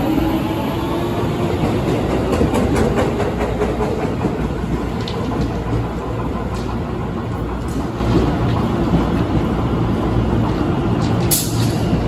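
Seibu Ikebukuro Line electric train running past, with a motor whine rising in pitch over the first few seconds, then a steady rumble with wheels clicking over the rail joints.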